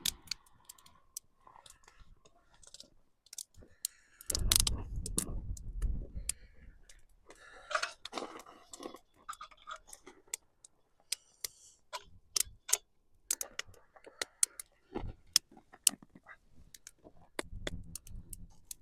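Newly lit campfire catching, its kindling crackling with irregular sharp pops and snaps. About four seconds in, a gust of wind rumbles on the microphone for a couple of seconds.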